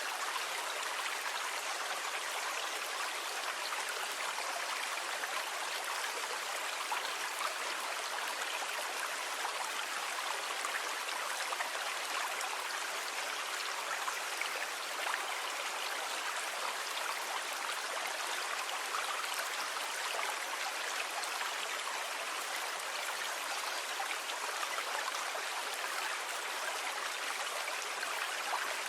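Sea water rushing steadily: an even wash with no separate waves breaking or surging.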